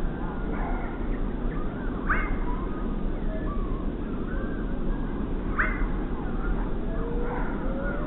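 Several wild birds calling at scattered moments over a steady low background noise, with two sharper calls sweeping downward in pitch, about two and five and a half seconds in.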